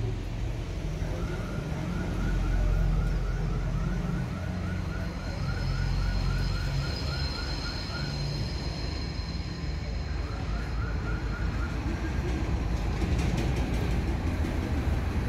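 Toyota Sienta's four-cylinder petrol engine idling steadily, a low even hum. Over it runs a high repeated chirping, about three chirps a second, for the first half and briefly again about ten seconds in.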